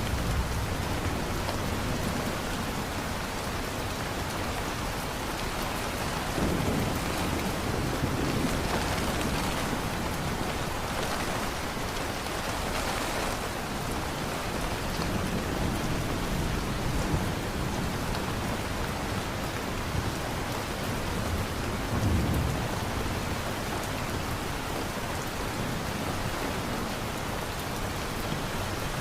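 Steady heavy rain falling, with low rolls of thunder rumbling up several times underneath it.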